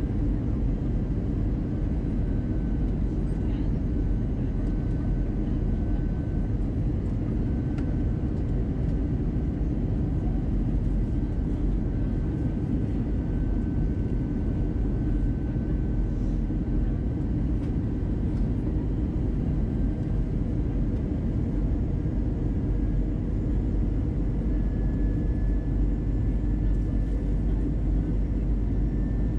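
Steady cabin noise of an Airbus A320 in descent: the drone of airflow and its CFM56 engines, heavy in the low end. A faint thin whine runs through it and rises slightly in pitch near the end.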